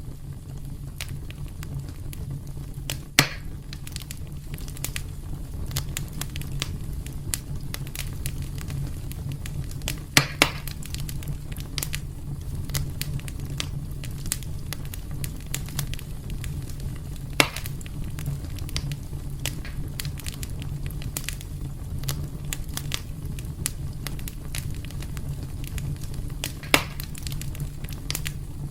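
Wood fire burning in a fireplace: a steady low rumble of flames under constant fine crackling, with a few louder sharp pops, one of them doubled.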